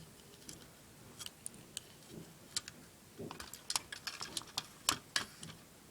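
Irregular light clicks and taps, few at first and coming thick and fast in the second half.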